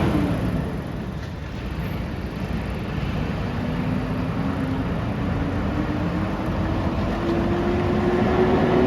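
Rear-loader garbage truck's engine running, a low rumble whose pitch climbs slowly through the second half as it revs.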